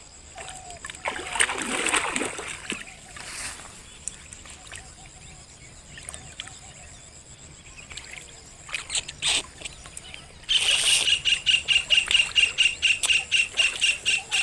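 Water splashing for the first few seconds, then a quiet stretch. About ten seconds in, a loud insect chirp starts suddenly and repeats in quick even pulses, about four a second.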